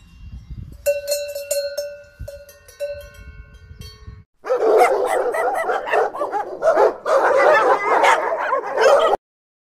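Cowbells clanking with a bright ringing, struck several times over the first four seconds. Then two dogs bark loudly over one another as they play-fight, until the sound cuts off shortly before the end.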